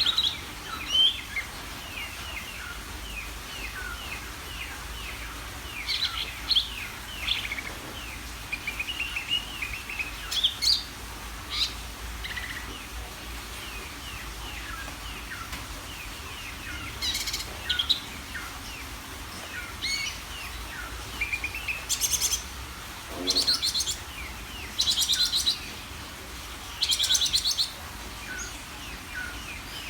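Cucak ijo (green leafbird) singing energetically: a steady run of short, varied chirps and whistles. Several loud, fast rattling trills come in, mostly in the second half.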